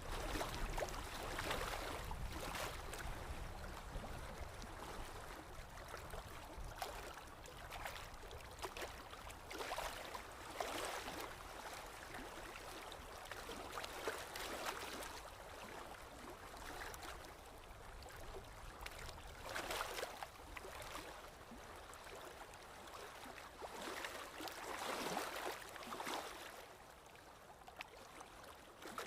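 Paintbrush swishing and scrubbing on canvas in irregular strokes, one every second or two.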